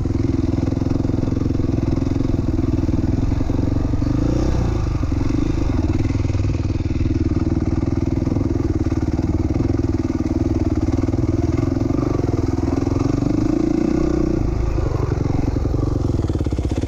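2007 450R dirt bike's single-cylinder four-stroke engine running under load while riding, its note rising and falling with the throttle and easing off briefly about four seconds in and again near the end.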